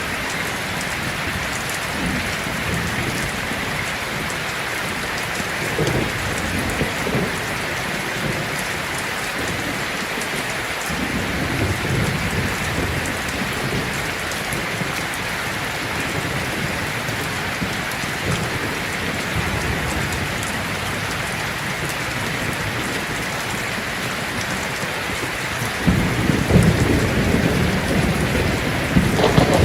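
Heavy rain drumming steadily on a tin roof, with low rolls of thunder now and then and a louder rumble of thunder building near the end.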